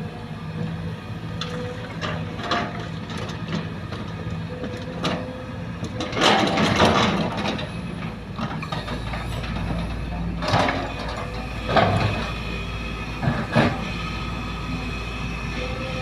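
Sumitomo excavator's diesel engine running steadily while it works, with a long, loud rush of noise about six seconds in and three shorter, sharper bursts later, typical of the machine digging and loading soil.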